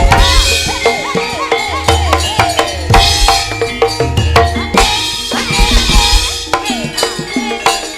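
Loud Javanese gamelan-style dance music driven by hand drums and a drum kit, with a heavy bass pulse and gliding pitched notes over dense rhythmic strokes.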